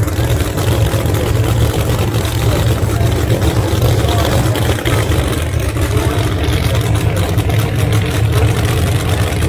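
Drag race car engines idling, a steady low rumble.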